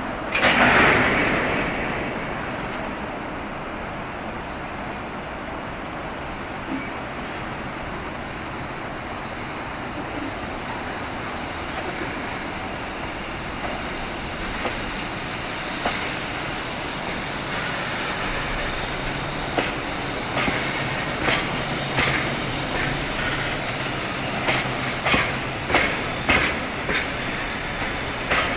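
A train running on the tracks: a loud rush of noise about half a second in, then a steady rumble, with wheels clacking over the rail joints in a rhythm that grows louder and quicker over the last ten seconds.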